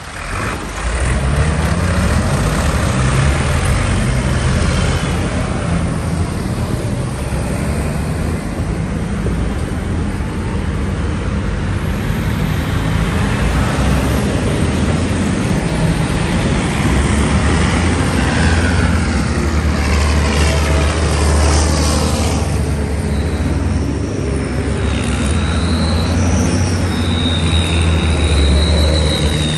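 Tractor engines running as tractors drive past on a road, a steady low engine note with the pitch sliding as machines pass.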